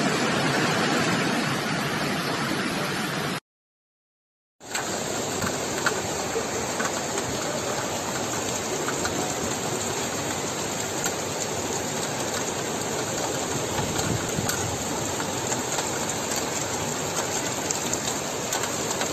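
Steady noise of heavy rain and rushing floodwater. It cuts out completely for about a second around three and a half seconds in, then returns as an even rain hiss with fine pattering ticks.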